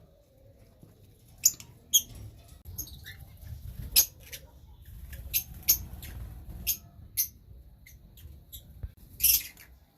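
Lovebirds chirping: short, sharp, high-pitched calls at irregular intervals, a dozen or so, over a low rumble.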